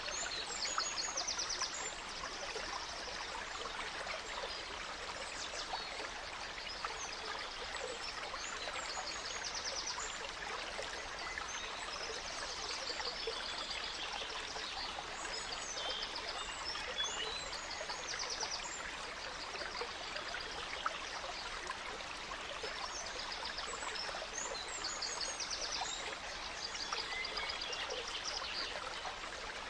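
A gentle stream trickling and babbling steadily, with several songbirds chirping and trilling throughout in short, high, rapid phrases.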